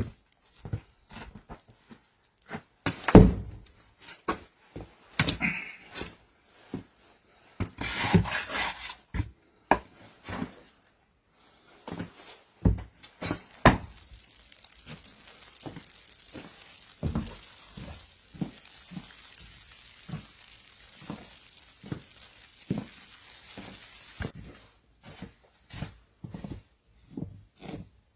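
Irregular knocks and wooden thunks of things being handled and set down, with one heavy thud about three seconds in and a short scraping rustle a few seconds later. A faint steady hiss runs under the knocks through the middle stretch.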